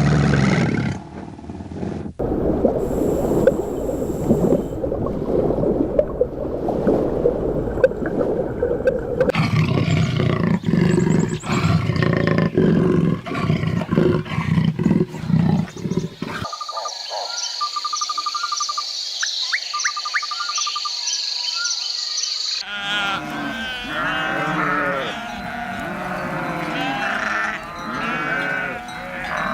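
A run of different animal calls in separate short clips, changing abruptly: low, rough calls first, then thin high chirps, then many overlapping rising-and-falling calls near the end.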